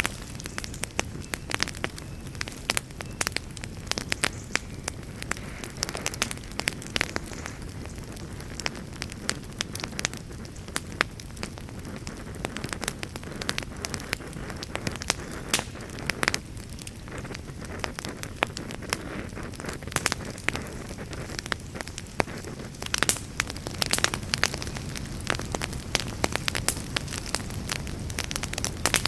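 Wood campfire crackling, with many sharp, irregular pops and snaps over a steady low rush.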